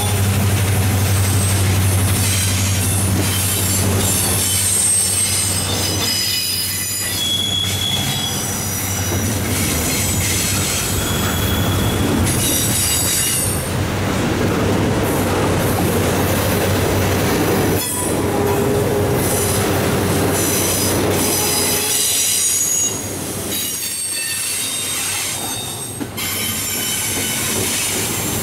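Double-stack intermodal well cars rolling past on steel wheels over a continuous rumble and clatter, with steel wheels squealing on the rail in high-pitched tones that come and go. A steady low hum fades out over the first few seconds, and there is one sharp click about eighteen seconds in.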